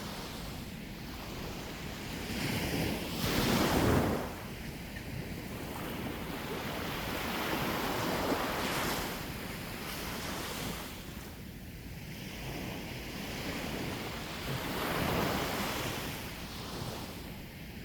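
Sea waves breaking and washing on the shore, the surf swelling about three times, loudest a few seconds in, with wind buffeting the microphone.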